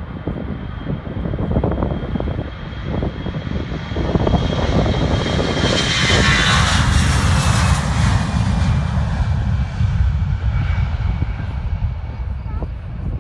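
A jet airliner's engines passing close by. The roar builds to its loudest about halfway through and then eases off, and a high whine drops in pitch as the plane goes past.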